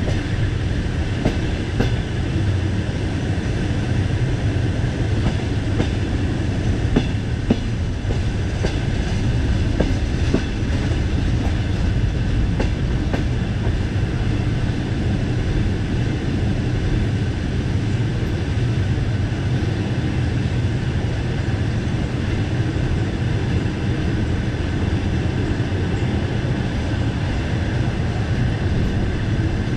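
Passenger train rolling on the rails: a steady rumble with the wheels clattering over the rail joints.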